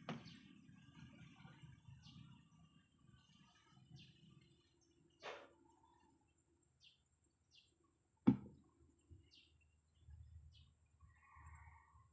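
Faint outdoor ambience with scattered short bird chirps and two sharp knocks. The louder knock comes about eight seconds in.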